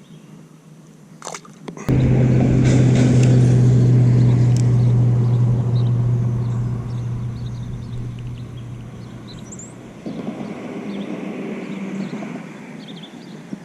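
A boat motor starts abruptly after a couple of clicks and runs with a steady low hum. It is loudest for the first few seconds, then eases off gradually, dropping further near the end.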